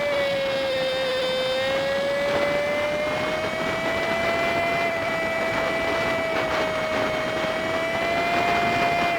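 Honda Super Cub 50 engine and road noise from a dash recorder, played back at five times speed, so the engine drone comes out as a high, steady whine that drifts slowly up and down in pitch over a constant rushing hiss.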